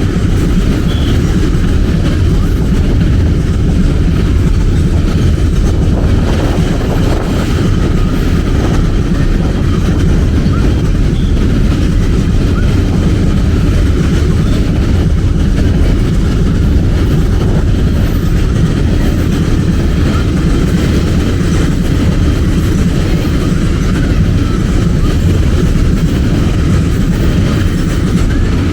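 A long train rolling steadily past close by. The noise of its wagons on the track stays loud and even, with no break, for the better part of half a minute.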